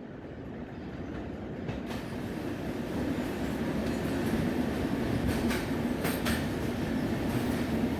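Passenger train running along the track, its wheels clicking over rail joints a few times. The rumble grows louder over the first few seconds, then holds steady.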